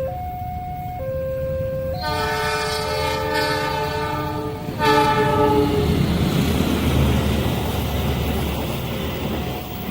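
Level-crossing warning alarm alternating between two tones, cut across about two seconds in by a train's multi-note horn: one long blast and then a shorter one. A passing train follows, with a steady rumble and clatter of wheels on the rails.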